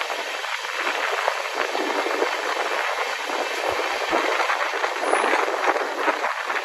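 Passenger train in motion: a steady rushing noise of the running coach, flecked with faint rattles.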